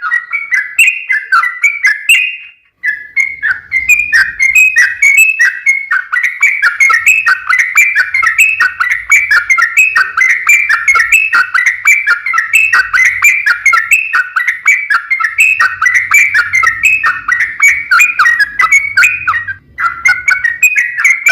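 Yellow-vented bulbul (trucukan) singing a long, almost unbroken run of quick bubbly chattering phrases, with one short break near the end.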